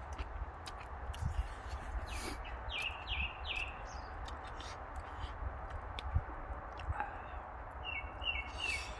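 A bird calling in the background: two groups of three short, falling calls, over a low steady rumble and a few small clicks.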